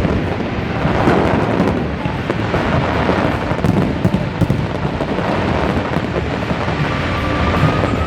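Fireworks barrage: many bursts and crackles running together into a continuous rumble, with a faint rising whistle near the end.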